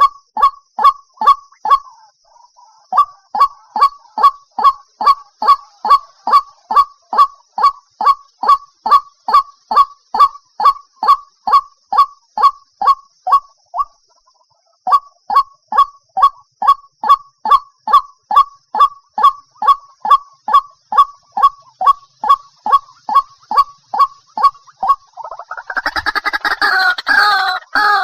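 White-breasted waterhen giving its repeated call, a short falling note about two to three times a second with two brief breaks: a decoy call used to lure waterhens into traps. Near the end a denser, different clamour takes over.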